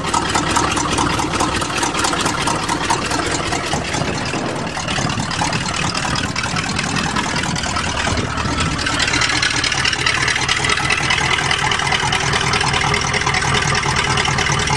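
GMC truck's 400 V8 engine running, with the rapid puffing tick of an exhaust leak. About nine seconds in, the engine note turns steadier and deeper.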